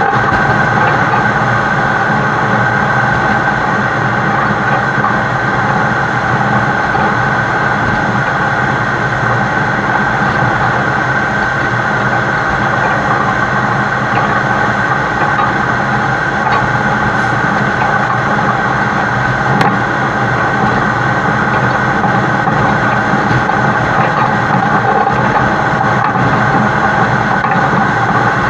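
Heavy-haul truck's diesel engine running steadily under load, with road and wind noise, heard close up from the side of the truck.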